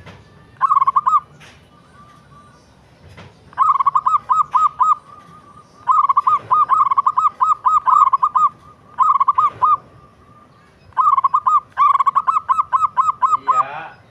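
Zebra dove (perkutut) cooing in five runs of quick, evenly spaced notes with short pauses between them. Near the end a different, lower call comes in.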